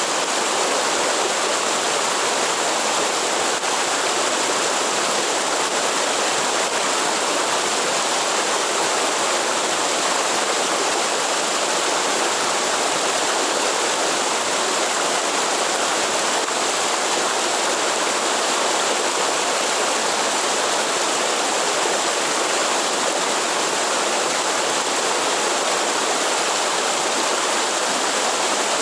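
Steady rush of a waterfall in the Atlantic Forest, falling water splashing continuously with no change in level.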